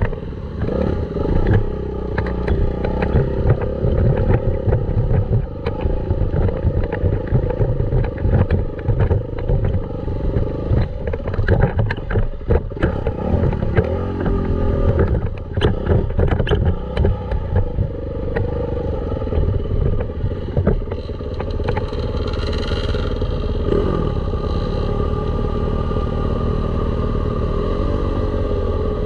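Dirt bike engine running under way, its revs rising and falling, with frequent knocks and rattles. The engine runs more steadily near the end.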